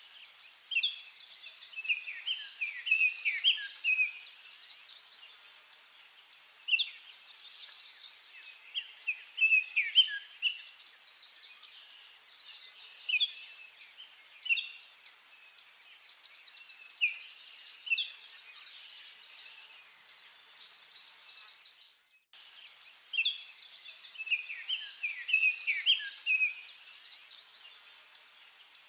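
Songbirds chirping in clusters of short, falling notes every few seconds, over a steady high-pitched insect drone. The sound cuts out briefly about 22 seconds in, then the same bird phrases start again.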